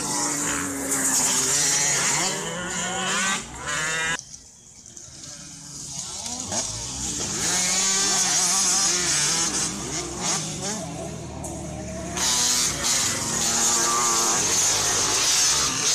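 Several small two-stroke motocross bikes revving hard and racing past, their engine notes rising and falling over one another. The sound drops away about four seconds in and builds back up after about six seconds.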